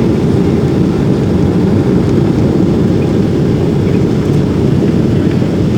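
Steady low rumble of jet airliner engines, Boeing 767-400, on approach.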